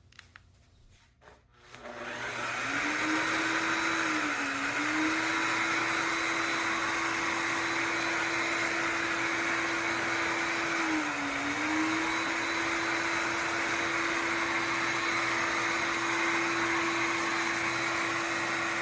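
Shark HydroVac MessMaster cordless wet-dry vacuum mop switching on about two seconds in and running steadily, a motor hum over the hiss of suction and the spinning brush roll as it is worked back and forth over floor stains. The motor's pitch dips briefly twice.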